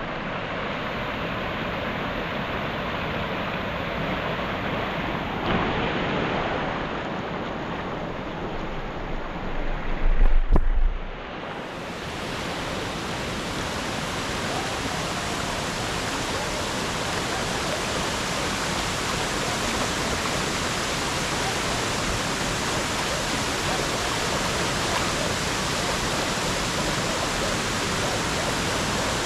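Waterfall rushing steadily, an even, unbroken noise of falling water. About ten seconds in there is a brief low rumble, like wind or handling on the microphone.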